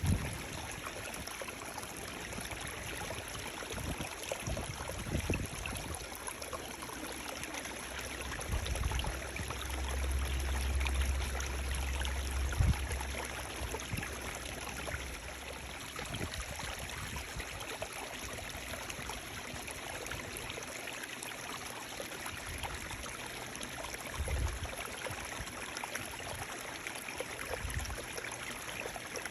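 Running water, a steady even rush with trickling. A deep low rumble joins it for a few seconds about a third of the way through.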